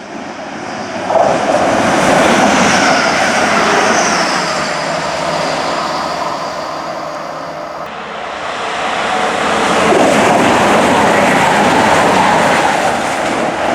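A train passing on the line, its wheel-on-rail noise loud and swelling twice before fading at the end.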